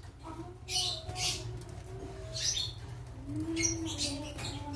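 Lovebirds chirping: about five short, shrill calls spaced through the few seconds, with softer, lower calls between them and a steady low hum underneath.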